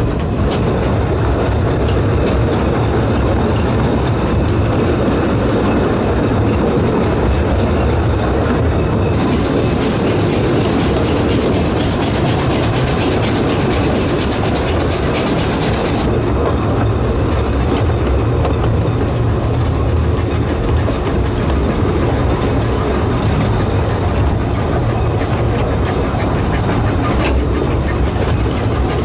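Narrow-gauge train running on its track, with a steady rumble of wheels on rail. A brighter hiss joins in from about 9 to 16 seconds.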